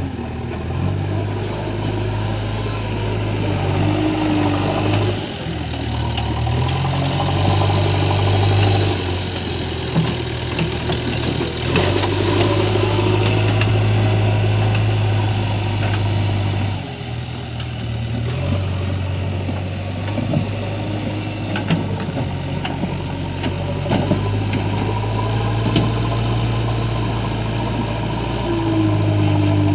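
Diesel engine of a backhoe loader running under load, its speed stepping up and down several times as it works. Scattered sharp knocks sound over it.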